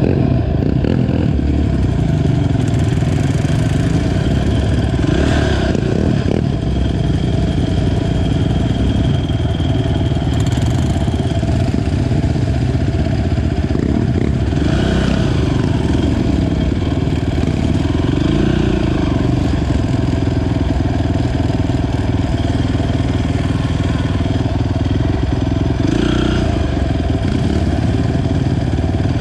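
Honda TRX450 ATV's single-cylinder four-stroke engine running steadily while riding a trail, its pitch wavering a little with the throttle.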